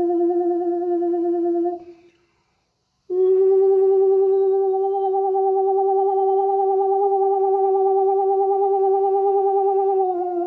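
A single voice toning long, wordless held notes with a steady vibrato. It breaks off for about a second near the two-second mark, as if for a breath, then holds a slightly higher note that slides down a little near the end.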